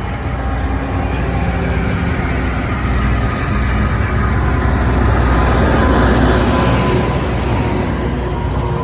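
Diesel locomotive passing close, its engine running with a low rumble that grows louder to about six seconds in and then eases off.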